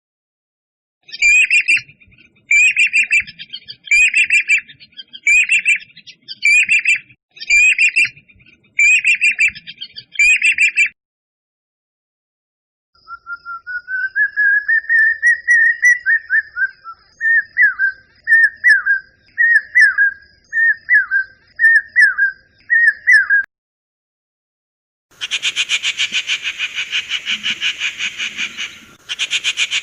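Wild bird calls played one species after another: a short call repeated eight times about once a second, then after a pause a rising whistled note running into about ten quick down-slurred notes, and in the last few seconds a harsh, fast-pulsing buzz.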